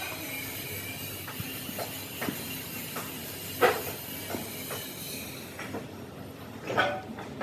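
Workshop noise: a steady hiss with scattered short metallic clicks and knocks, a louder knock about three and a half seconds in and another near the end; the hiss thins out after about six seconds.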